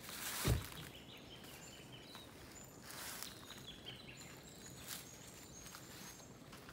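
Small birds calling in short, thin, high notes. There is a dull thump about half a second in and a few brief rustles.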